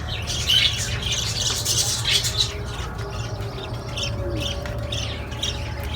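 A roomful of caged small parrots chirping and squawking, with many short overlapping calls over a steady low hum.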